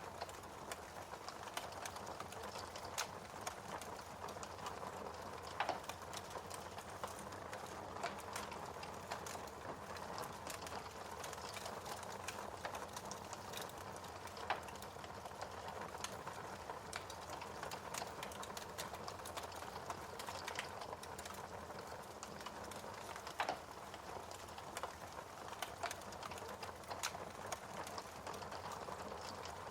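Wood fire burning in a fireplace, with a steady low hiss and irregular crackles and sharp pops, a few of them louder.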